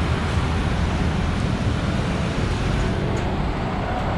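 Steady road traffic noise from vehicles passing on a busy city street.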